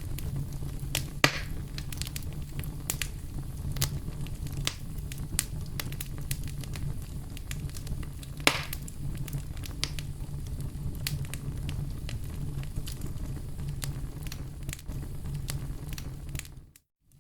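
Campfire crackling: scattered snaps and pops over a steady low rumble of burning wood, with two louder pops, about a second in and about eight seconds in. The sound cuts out briefly just before the end.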